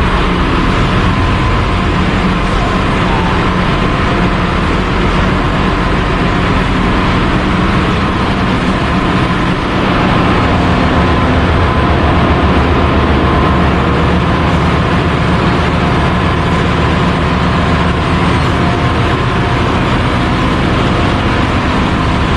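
Loud, steady din of a ship's engine-room machinery running, with a constant low hum under a dense mechanical noise.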